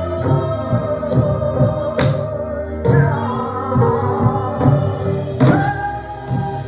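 Korean traditional ensemble music: sori-buk barrel drums beating a steady pattern under a sustained melody line that slides up in pitch about three seconds in and again about five and a half seconds in.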